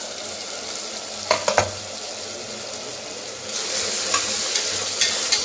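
Chopped tomatoes and onions sizzling in oil in an open stainless steel pressure cooker, with a few sharp clicks about a second and a half in. From about three and a half seconds in, a steel ladle stirs and scrapes the pot and the sizzling grows louder.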